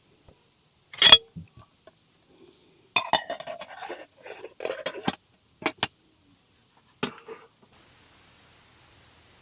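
Metal camp cookware clanking and clattering as it is handled: a loud clank about a second in, a run of clattering, then a few single sharp clinks. A faint steady hiss starts near the end.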